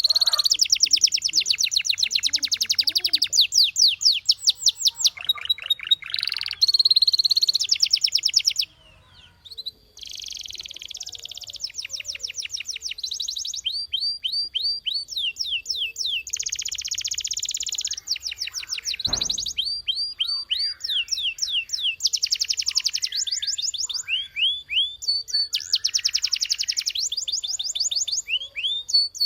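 Canary singing a long song made of fast trills: runs of rapidly repeated high, rising notes that switch to a new phrase every few seconds, broken by a brief pause about nine seconds in.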